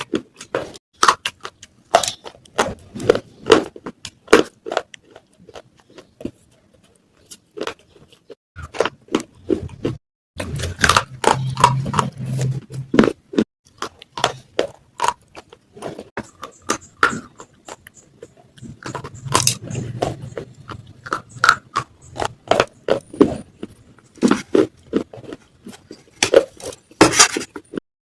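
Pieces of baked clay pot (matka) being crunched and chewed close to the microphone: many sharp cracks, with two stretches of denser grinding chewing.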